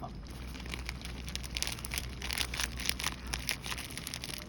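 Food crackling and sizzling in hot oil in a pan, a steady spatter of irregular pops.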